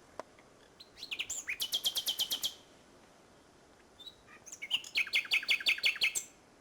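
Common nightingale singing: two song phrases a couple of seconds apart, each starting with a few scattered notes and breaking into a fast run of rapidly repeated notes.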